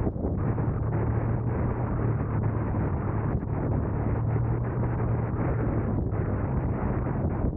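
Steady road and wind noise of a car driving, with a constant low hum under the rushing noise and wind buffeting the microphone.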